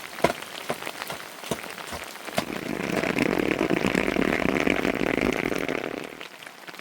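Rain falling on a surface, with separate drops ticking throughout. The rain swells louder for a few seconds in the middle before easing again.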